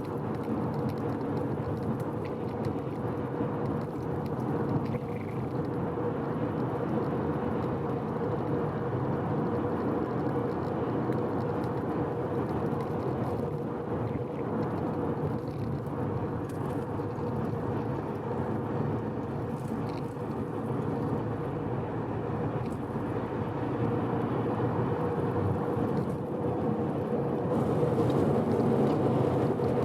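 Mazda FD3S RX-7's twin-turbo 13B rotary engine and tyre noise while cruising steadily on an expressway, with a constant hum over the engine note. The engine is freshly rebuilt and being run in under gentle throttle, and it grows slightly louder near the end.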